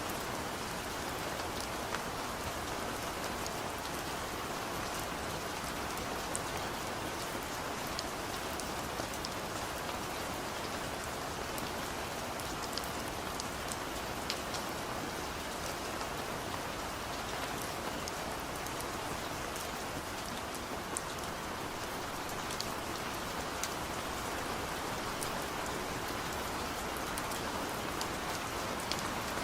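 Steady rainfall, an even hiss of rain with scattered sharper drop ticks.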